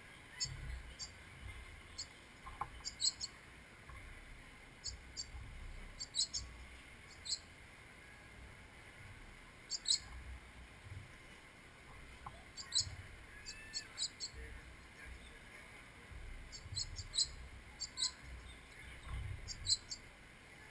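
Small birds chirping in short, high calls, often in quick runs of two to four, scattered all through, over a faint low rumble.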